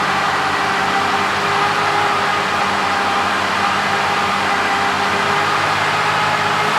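Mercedes-Benz Actros 2545 truck's straight-six diesel engine idling steadily.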